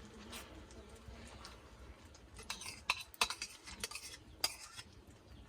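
Metal spoon clinking and scraping against a frying pan, a quick run of sharp clinks starting about halfway in.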